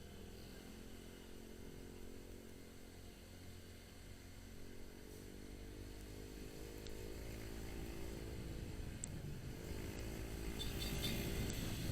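Motorcycle engine running on the move, its pitch rising and falling with changes in speed and growing louder toward the end.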